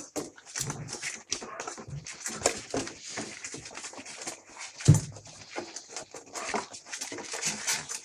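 A litter of 30-day-old Australian Cattle Dog puppies eating meat: a busy, irregular run of wet smacking and chewing clicks. There is one loud knock about five seconds in.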